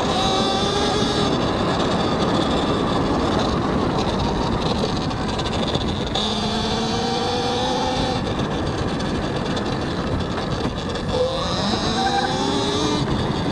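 Talaria X3 electric dirt bike's motor whining under way, its pitch climbing as the bike speeds up in the middle and again near the end. Wind and tyre noise rush over a helmet-mounted microphone.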